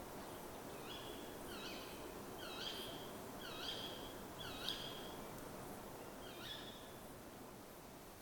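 A bird calling over and over, six short calls about a second apart, each dipping and rising in pitch, over a faint steady outdoor hiss.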